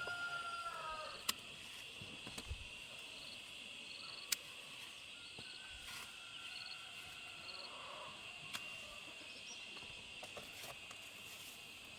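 Steady chirring of an insect chorus, likely crickets, with a few sharp clicks scattered through it.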